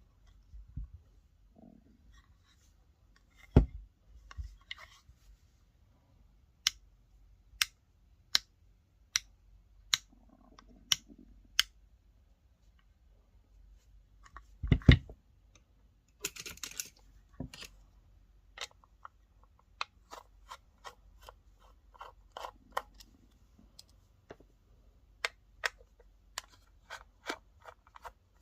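Hands handling the packaging and body of a guitar distortion pedal during an unboxing: two heavier knocks, a run of sharp clicks about one a second, a short burst of rustling near the middle, and quicker clicks toward the end.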